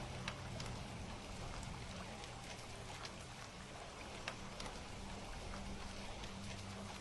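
Steady rain with scattered sharp crackles and pops from a wood fire, over a faint low hum.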